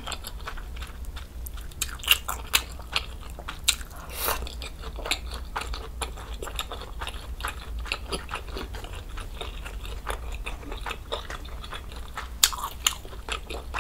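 Close-miked chewing of a mouthful of budae jjigae (Korean army stew) with its ramen noodles, with many short wet mouth clicks and smacks at irregular intervals.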